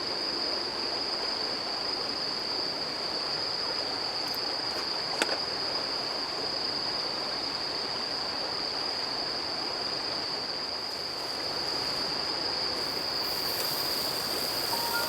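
Autumn night insects, crickets, keeping up a constant high trill over the steady rush of running water, with one sharp click about five seconds in.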